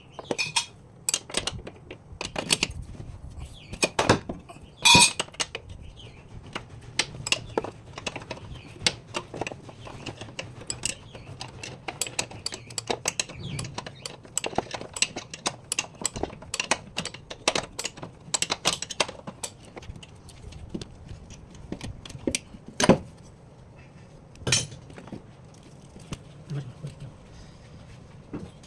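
Irregular clinking and clattering of metal hand tools and parts, with a few louder knocks.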